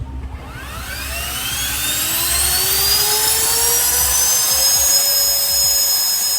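機械堂 暴風鴨 (Storm Duck) cordless handheld ducted-fan blower spooling up in boost mode. Its soft start makes the jet-like whine rise steadily in pitch over about four seconds before it holds at full speed.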